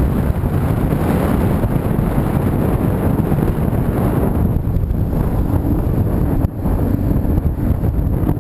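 Steady rumble of wind and road noise from a moving vehicle, with wind buffeting the microphone; it dips briefly about six and a half seconds in.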